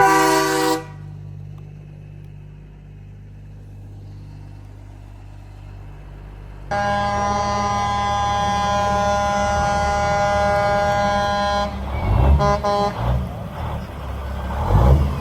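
Truck air horns: a chord-like horn blast cuts off just under a second in, then only a low engine hum, then a long steady air-horn blast of about five seconds, followed by several short toots over engine rumble.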